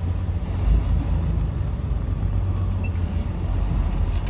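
Semi-truck's diesel engine running, heard from inside the cab as a steady low drone.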